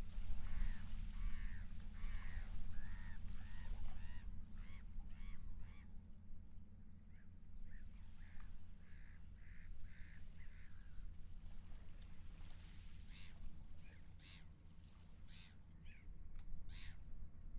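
Seagulls calling: a run of repeated arched cries in the first few seconds, more calls after a short gap, then sharper, shorter calls near the end. A steady low rumble runs underneath.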